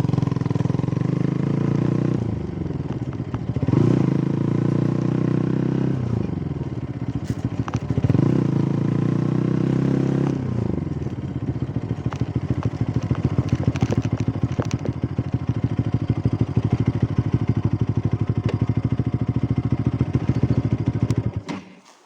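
An engine running, its revs rising and falling about three times and then holding steady, until it cuts off suddenly near the end.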